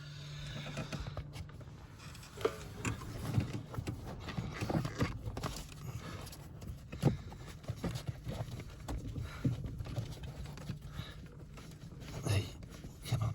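Irregular knocks, taps and clicks of hands and a tool working on a van's gear-shift cable mounting, with a bolt being fitted underneath.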